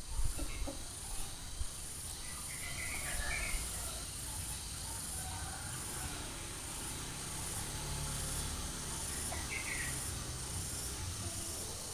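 Short bird chirps, a brief cluster about three seconds in and another near the end, over a steady background of insect hiss and low rumble.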